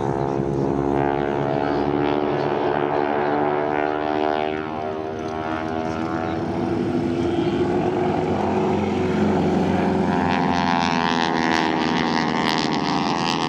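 Propeller airplane engine droning as it flies past. Its pitch falls about four seconds in, then rises and grows louder near the end as the plane comes around again.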